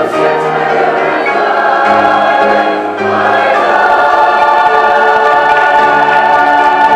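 Large mixed choir of school-age voices singing a cappella, sustaining full chords, with a brief dip about three seconds in before a long held chord.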